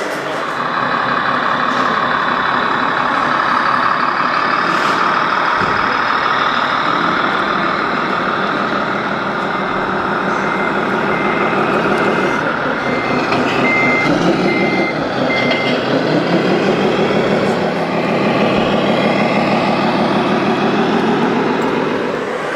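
Truck engine running throughout, with a reversing alarm beeping about seven times near the middle. The engine's pitch rises and falls in the second half.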